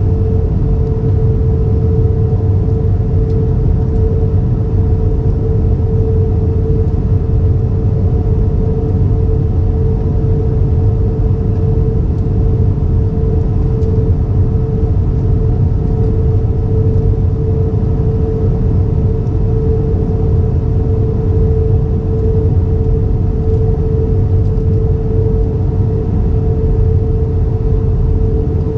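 Airbus A320 cabin noise in flight: a loud, steady rumble of engines and airflow with a constant mid-pitched hum over it, unchanging throughout.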